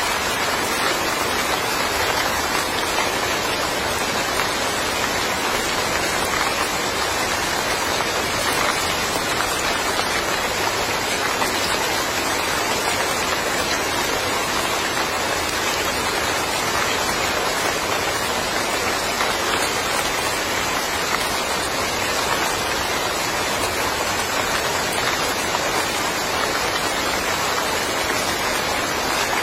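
Steady rain falling, an even hiss of many drops on surfaces with no breaks.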